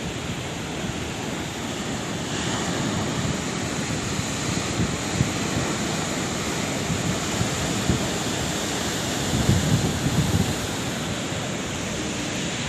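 Sea waves breaking and washing in a steady surf, with a louder low rumble a little before the end.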